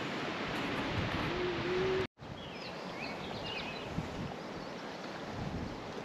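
Steady rushing outdoor ambience that drops out for a moment about two seconds in. It then returns with a small bird chirping a few quick high notes.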